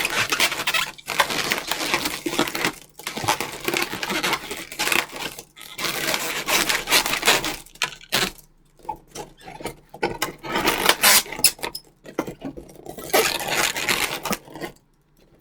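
Latex modelling balloons being handled and twisted, rubber rubbing and squeaking against rubber in dense bursts with a few short pauses.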